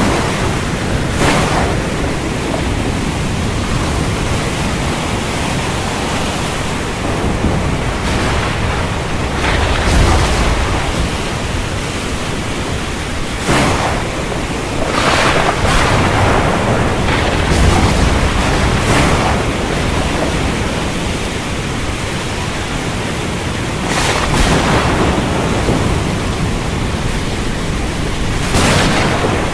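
Heavy stormy rain pouring steadily, broken by several sudden louder surges and a few low rumbles of thunder.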